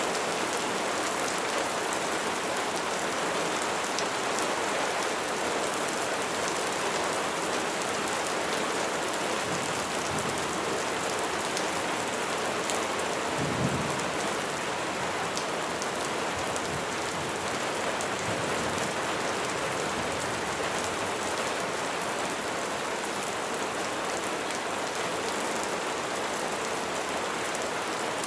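Steady heavy rain falling and pattering on surfaces, with a short low rumble of thunder about halfway through.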